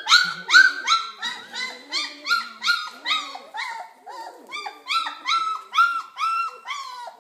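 A 4-week-old Bernedoodle puppy crying over and over in high-pitched whines, about three short cries a second, each sliding down in pitch at its end.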